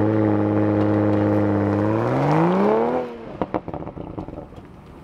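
2020 Toyota Supra's turbocharged engine pulling hard from a launch-control start: the engine note holds nearly steady, then climbs in pitch, and about three seconds in the pitch and loudness drop sharply, leaving a faint engine sound.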